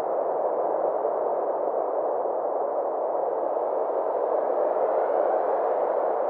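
Synthesized space-ambience drone: a steady, softly rushing band of noise in the middle range, with faint gliding tones drifting in higher up about halfway through.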